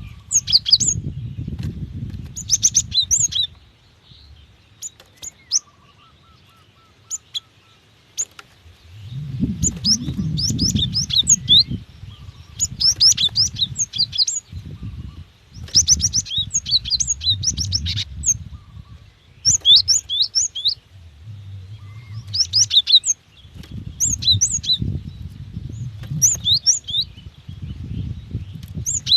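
Female cinereous tit (gelatik batu) calling: repeated quick bursts of high, sharp chirps, each burst about a second long with short pauses between, over a low background rumble.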